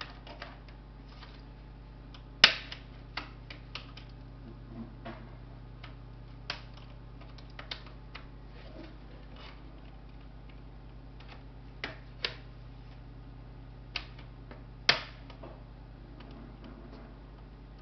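Scattered clicks and taps of small laptop parts and tools being handled during disassembly, with two louder knocks about two and a half seconds in and about fifteen seconds in, over a steady low hum.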